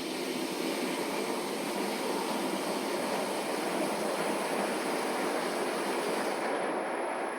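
Large 39 kg commercial front-loading washing machine running with a steady, even rumbling wash noise.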